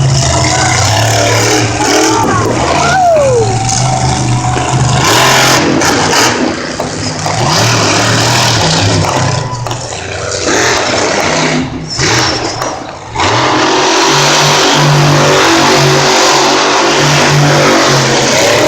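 Monster truck engine running loud and revving, easing off for a few seconds in the middle, then revved again and again near the end.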